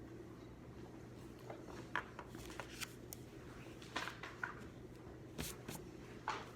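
Faint desk sounds of silent studying: scattered light taps and short scratchy strokes of pen and paper handling, over a steady low room hum.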